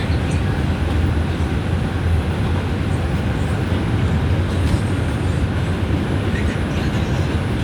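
Steady low rumble and even hiss inside an R142 subway car.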